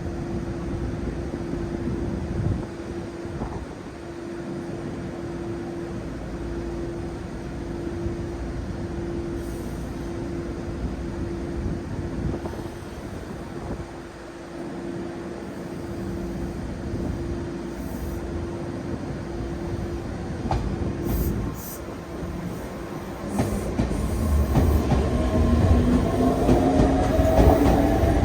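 Meitetsu 3500-series electric train (set 3519F, with renewed traction equipment) standing with a steady electrical hum, then starting to pull away near the end: a rising inverter whine over growing motor and wheel rumble as it accelerates.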